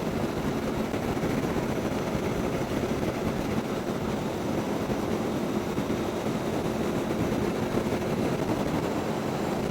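Steady wind rush and engine noise of a motorcycle cruising at an even speed, with no changes in pitch or level.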